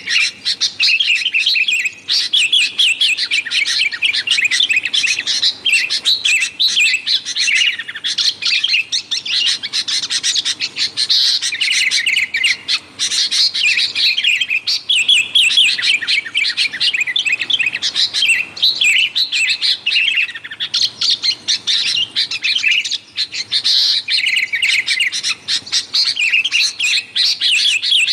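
Sooty-headed bulbuls (kutilang) chattering noisily, with rapid, overlapping chirps and short call phrases that run on without a break.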